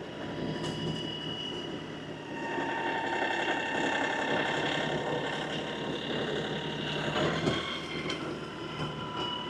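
LS XR315 compact tractor's diesel engine working under load, with a steady whine over it. It pulls harder from a couple of seconds in for several seconds, then eases off: the tractor is stuck in the mud at the pond edge and straining to get out.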